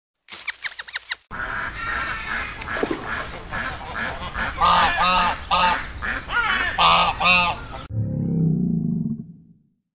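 Waterfowl honking over and over, a string of pitched calls with the loudest ones in the middle. Near the end a deeper call takes over and fades away.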